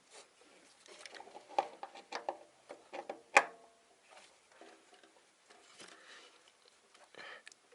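Scattered metallic clinks and clatter of tools and small parts being handled during engine work, with one sharp, ringing clink about three and a half seconds in.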